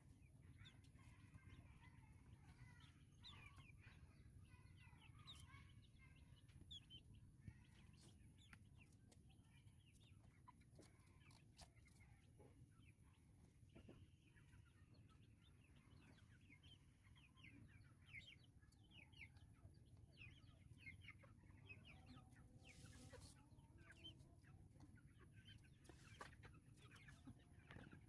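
Faint, rapid peeping and chirping of white-breasted waterhen (dahuk) chicks, many short calls scattered throughout, over a low steady hum.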